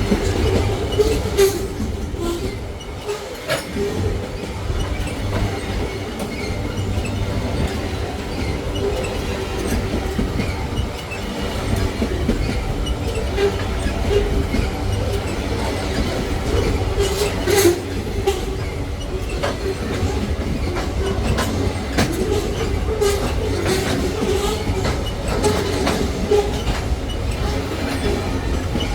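Freight train cars rolling past: a steady rumble with the clickety-clack of wheels over rail joints and a wavering squeal from the wheels.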